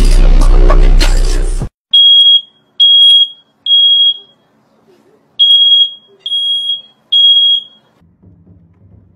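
A loud, distorted burst of noise for under two seconds, then a smoke alarm beeping in its three-beep alarm pattern: three short high beeps, a pause, and three more.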